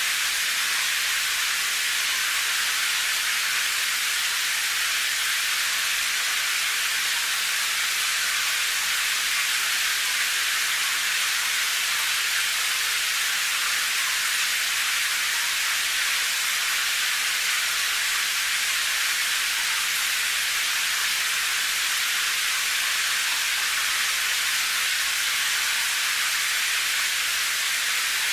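Rain falling as a steady, even hiss, mostly high-pitched with little low rumble and no single drops standing out.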